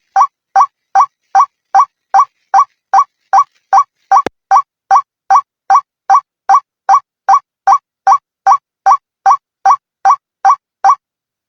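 White-breasted waterhen calling: a single hooked note repeated evenly about two and a half times a second, stopping shortly before the end. It is a lure recording used to draw the birds in. A single sharp click falls about four seconds in.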